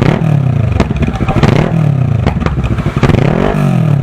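Kawasaki ER-6's parallel-twin engine revved through its exhaust in a series of quick throttle blips, the pitch rising and then falling back after each one, with sharp cracks in between.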